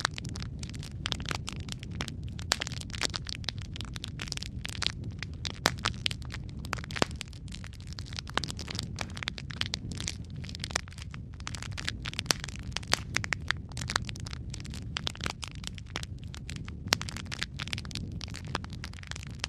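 Wood fire crackling steadily: a low rumble of flame under dense, irregular snaps and pops.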